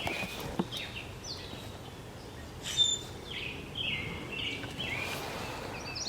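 Bird calling in a forest: a string of short, downward-sliding calls, about two a second, through the second half. There is a single sharp click about three seconds in.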